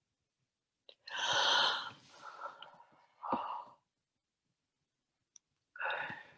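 A person sighs deeply: a long breath out beginning about a second in, followed by shorter, softer breaths.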